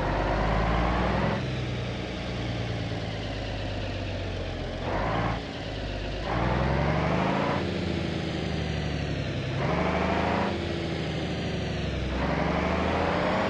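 Tractor engine running and revving up and back down about five times.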